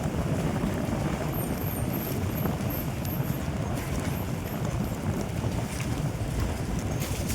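Steady low rumble of a vehicle driving, engine and road noise with wind on the microphone.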